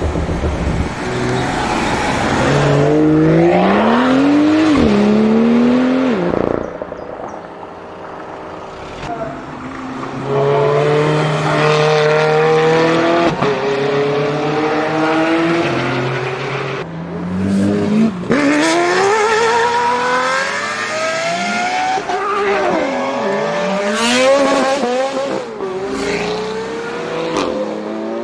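Supercar engines revving and accelerating hard, the exhaust note climbing and dropping again and again, with some tyre squeal.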